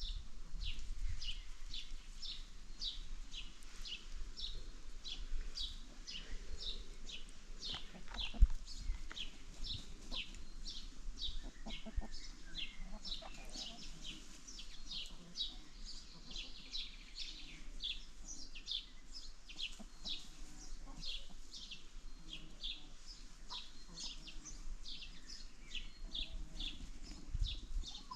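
Small birds chirping: a steady stream of quick, high, down-slurred chirps, two or three a second, with one sharp thump about eight seconds in.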